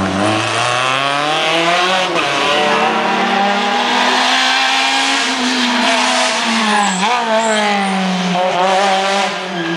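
Rally car engine revving hard, its pitch climbing and falling through gear changes, with a sudden drop about seven seconds in and a climb again near the end.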